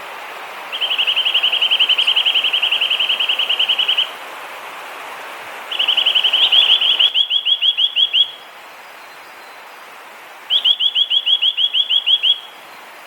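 Eurasian nuthatch singing: three rapid trills of clear, repeated whistled notes. The first trill is fast and even, and the later ones are slower and shorter, over a steady background hiss.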